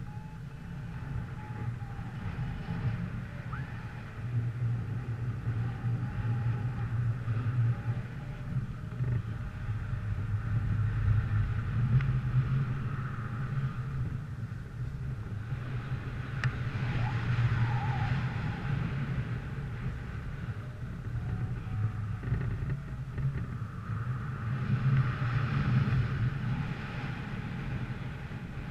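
A motor vehicle's engine running steadily, with gusts of wind on the microphone swelling and fading twice.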